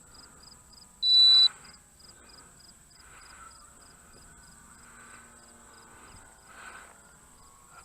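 Crickets chirping steadily in a fast, even pulse, with a single loud, high electronic beep lasting about half a second about a second in.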